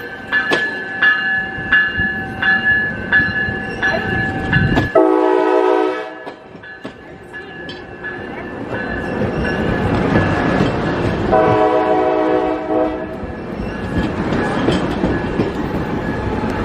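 Railroad grade-crossing bells ding about twice a second. A passenger train's horn then sounds two blasts, the first about five seconds in and a slightly longer one past eleven seconds, as the train's rumble grows louder on approach.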